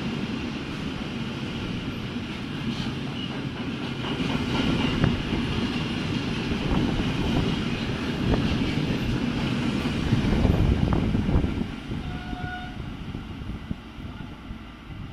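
Freight train of double-deck car-carrier wagons passing close by at speed, a steady loud rush of wheel and wagon noise. It falls away about twelve seconds in as the last wagons clear.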